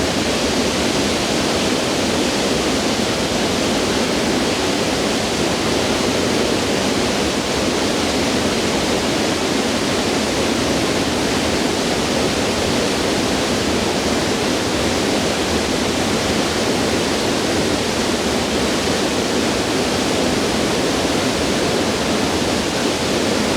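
Steady, loud roar of a tall waterfall in full spate, the water plunging into a gorge. The sound is strong and unchanging.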